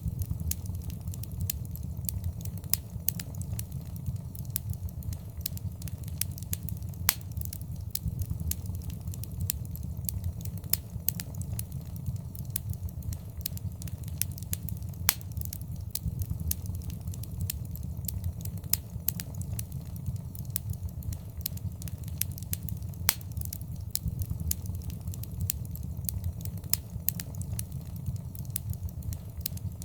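Wood fire in a fireplace crackling: a steady low sound of the flames with frequent, irregular sharp pops and snaps.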